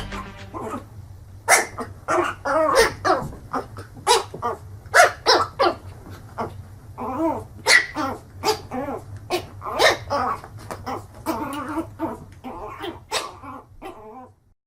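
A dog vocalising in a quick series of short barks and yelps, some bending up and down in pitch, stopping just before the end.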